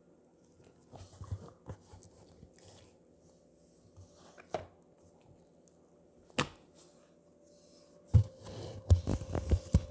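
Slime being handled close to the microphone, with scattered sharp clicks and pops, then a quick run of louder pops near the end.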